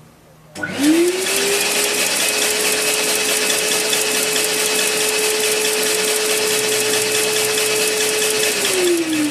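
An electric motor, likely the air blower feeding a wooden double-acting model engine, starts suddenly about half a second in, rises to a steady whine over a hiss of rushing air with fast fine ticking, and winds down near the end.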